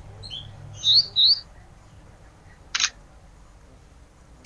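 A caged songbird known in Indonesia as 'ranting' gives two quick, loud rising chirps about a second in, then a single short sharp click near the middle, over a faint low hum.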